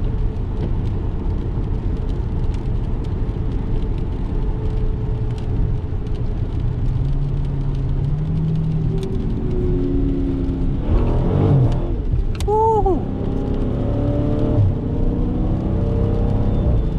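Stock 2018 Dodge Challenger 392's 6.4-litre HEMI V8 running under way with steady road drone, its engine note rising for a couple of seconds about halfway through. A few brief higher pitched sweeps follow shortly after.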